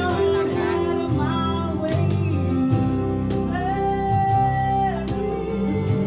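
A live band playing a pop love song: a singer over keyboard, bass guitar, guitar and cajón, with the cajón keeping a steady beat. The voice holds one long note from about three and a half to five seconds in.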